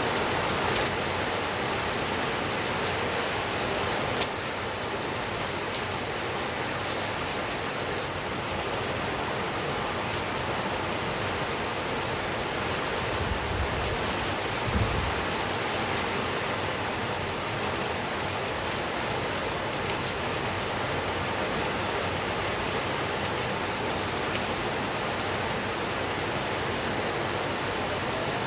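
Steady rain falling on surfaces, an even hiss with a few sharp ticks, the loudest about four seconds in.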